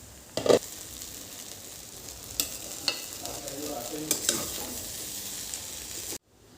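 Food sizzling and frying in hot oil in a pan while it is stirred, with a loud clatter about half a second in and several sharp utensil clinks against the pan. The sizzle cuts off suddenly near the end.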